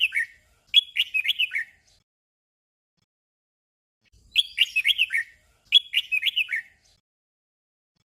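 Red-whiskered bulbul singing short doubled phrases of quick, chirpy notes. The phrases come in pairs about half a second apart, with a silent gap of about two seconds between pairs: one phrase right at the start, one just under a second in, then another pair from about four seconds in.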